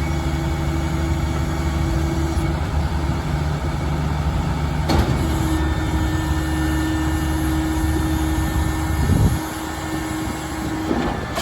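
Mack RD garbage truck's diesel engine running steadily with a steady whine over it, and a single clank about five seconds in. About nine seconds in the deep engine rumble drops away abruptly.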